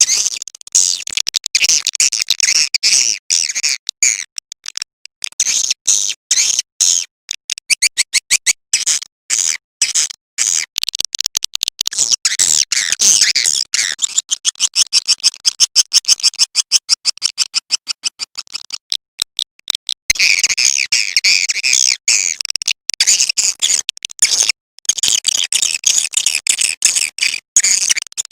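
Recorded edible-nest swiftlet calls: a dense, rapid twittering of high chirps and clicks, used as a lure call ("suara panggil") to draw swiftlets into a nesting house.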